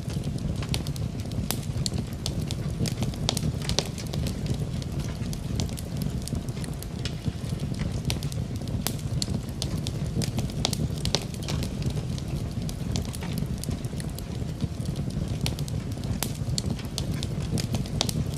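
Wood fire burning in a fireplace, crackling with frequent irregular sharp snaps and pops over a steady low rumble.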